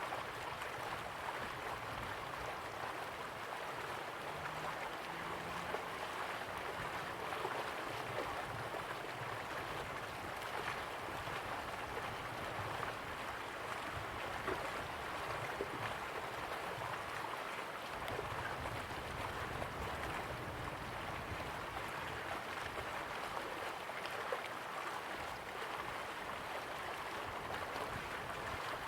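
Slow-flowing river water, running with a steady rush and small irregular splashes and trickles.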